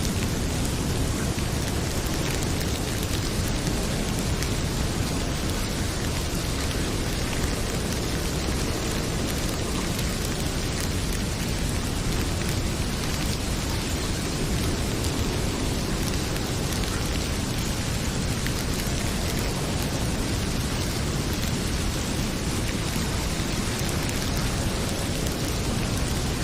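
Heavy rain pouring steadily, an unbroken hiss with a deep low rumble beneath it, mixed with a wood fire crackling in a fireplace.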